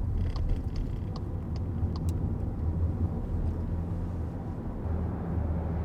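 Steady low rumble of a SEAT Leon heard inside its cabin while driving, with a few faint clicks in the first two seconds.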